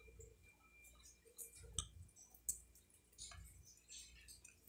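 Faint close-up eating sounds: soft mouth clicks and chewing as a person eats braised pork rib by hand, with a few separate small smacks spread through.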